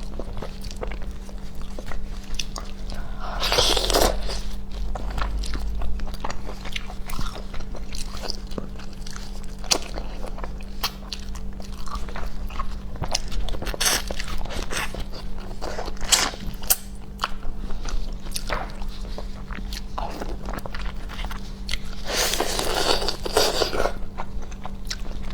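Close-miked eating: biting and chewing with many small wet mouth clicks, with two longer, louder noisy stretches about four seconds in and near the end.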